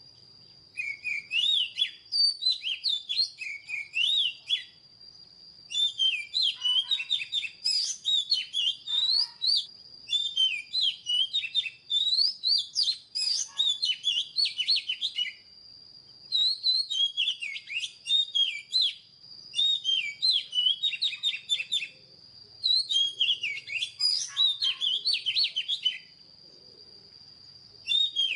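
Oriental magpie-robin singing: bouts of rich, varied whistled phrases, each lasting a few seconds with brief pauses between them. A faint steady high-pitched tone runs underneath.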